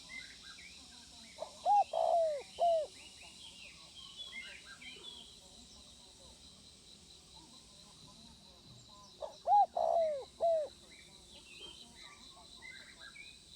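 Spotted dove cooing: two phrases about seven seconds apart, each a few short low coos around a longer middle coo. Faint chirps from small birds sound between the phrases.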